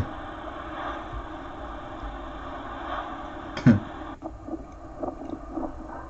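A vehicle running past with a dog barking at it: one short, loud bark about three and a half seconds in. The sound then cuts off abruptly.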